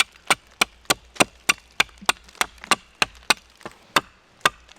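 A hatchet chopping a point onto a wooden stake: quick, even strikes on wood, about three a second, with a brief pause near the end.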